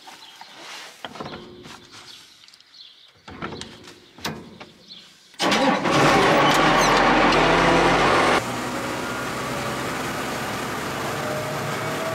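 Light clicks and knocks, then about five seconds in a tractor engine starts up with a sudden loud rush and runs steadily. It is about to drive a PTO grain vacuum.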